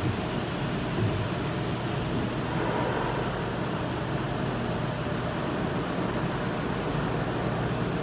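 An automatic car wash heard from inside the car's cabin: a steady rushing noise over a constant low hum.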